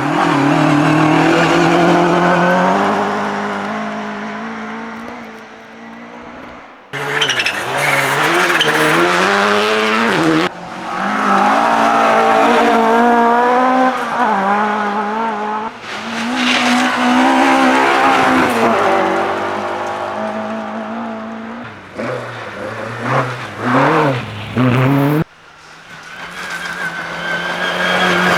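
Rally car engines revving hard and falling away, heard in a run of short clips that cut abruptly from one car to the next. The pitch climbs and drops again and again through gear changes and lifts.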